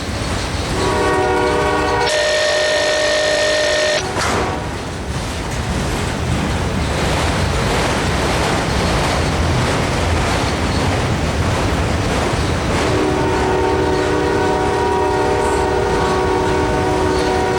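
CSX freight locomotive's air horn sounding a long blast about a second in, then again near the end, with the steady rumble and rattle of the passing train between the blasts.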